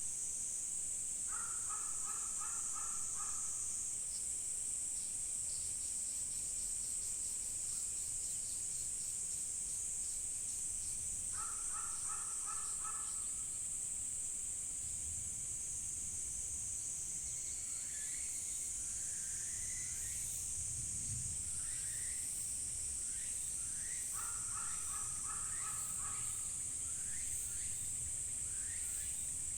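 A high, steady insect chorus, with a crow cawing in short runs of several caws about every eleven seconds. Smaller birds chirp in the second half.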